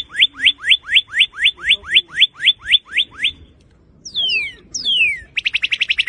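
Northern cardinal singing: a long run of rising slurred whistles, about four a second, then after a short pause a few falling whistles and a fast trill near the end.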